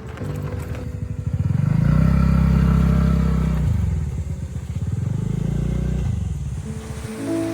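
Motor scooter engine under way, revving up about a second and a half in, easing off, then picking up again before dying down near the end.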